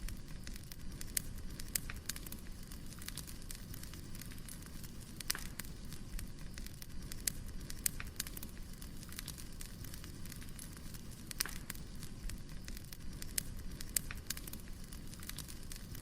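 Wood fire burning, with a steady low rumble and irregular sharp crackles and pops from the logs.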